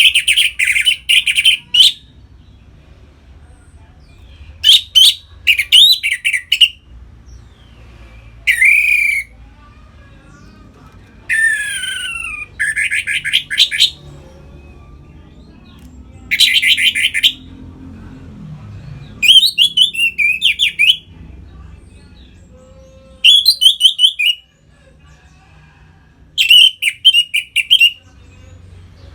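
Orange-headed thrush singing a loud, open song: a phrase of rapid trilled notes and whistled slurs comes every three seconds or so, with short silent gaps between the phrases.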